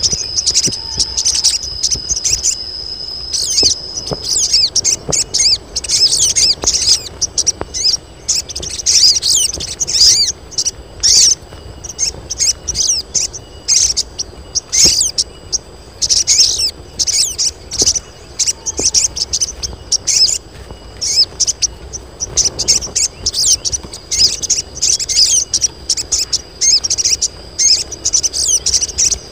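A group of female sogon birds calling rapidly and noisily, many overlapping high chirps and trills in quick clusters. These are females in breeding condition calling for males. A steady thin high tone sounds under the calls for the first few seconds.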